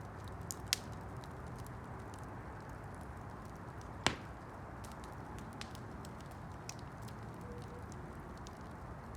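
Wood campfire burning with a steady low rush, scattered small crackles and two sharper pops, one about a second in and a louder one near the middle.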